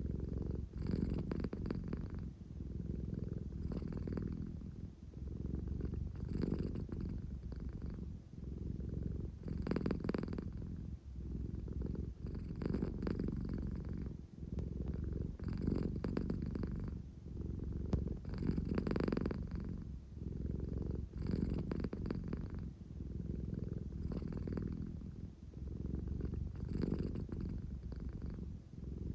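American Shorthair cat purring steadily close up, the purr swelling and fading in level about every three seconds.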